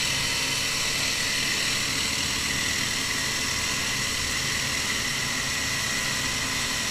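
Steady vehicle running noise with a constant hiss of wind and road, holding an even level with no changes.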